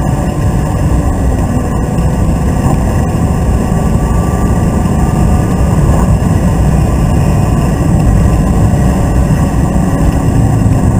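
BMW Z3's engine pulling hard, with tyre and wind noise, heard from inside the cabin. A dense, steady sound with little change, a little louder in the second half.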